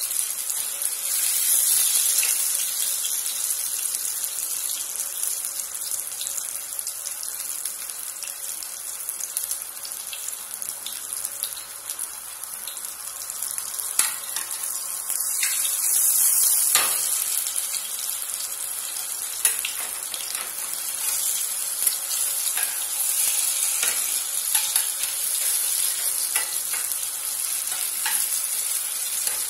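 Mutton shami kebab patties shallow-frying in oil in a deep pan, sizzling steadily, with occasional sharp clicks and scrapes of a spatula against the pan as they are turned.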